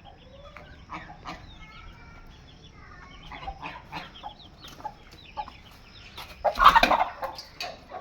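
Aseel chickens clucking, with short high peeping calls from chicks; one louder call comes about six and a half seconds in.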